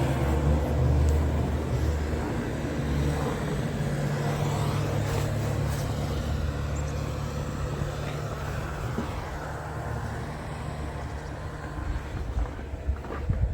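Motor vehicle running: a steady low engine rumble with road noise that slowly fades. Near the end come a few rough, uneven bumps.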